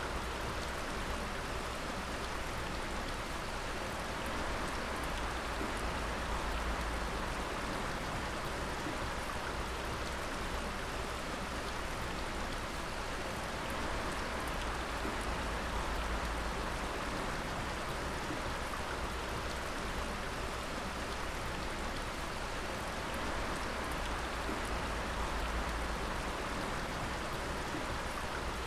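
Water dripping continuously, many drops together making a steady hiss with small scattered ticks.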